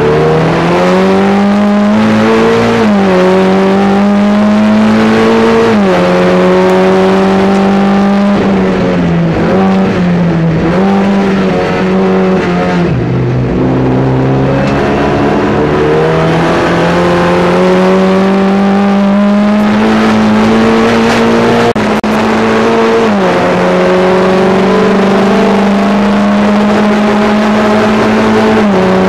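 Volkswagen Jetta race car's engine heard from inside the cockpit under hard acceleration, its pitch climbing steadily through each gear and dropping sharply at every upshift, about four times. Near the middle the pitch falls and wavers as it steps down through the gears for a corner.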